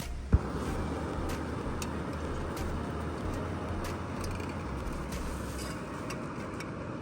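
A single sharp knock, then the river beside the campsite rushing steadily.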